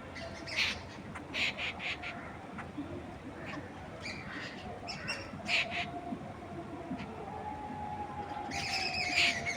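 Several birds calling and chirping in short, repeated notes, busiest near the end, over a steady rustle of wind through trees.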